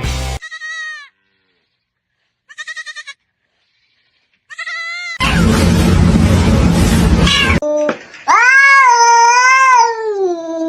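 An animal calling: three short, wavering cries with pauses between them, then a loud rushing noise for a couple of seconds, then long drawn-out cries that rise and fall in pitch.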